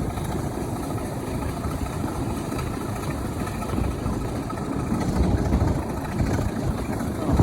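Diesel locomotive engine running steadily with a low rumble, growing a little louder about five seconds in.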